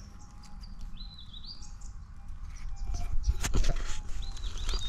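Small birds chirping in short calls, about a second in and again near the end, over a faint steady tone that stops about four seconds in. A few clicks and a low rumble of handling noise a little past halfway.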